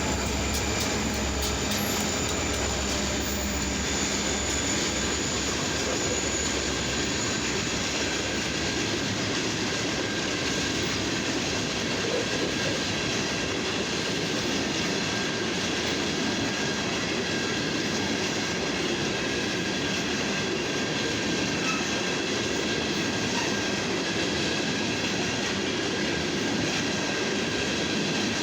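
Railroad cars rolling slowly past in a steady stream, with faint steady high-pitched wheel squeal over the rumble. There is a little more low rumble in the first couple of seconds.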